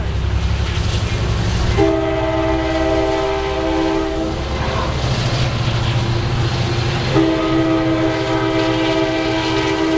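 Train horn sounding two long blasts, a chord of several steady notes, the second starting about seven seconds in, over the low rumble of a train.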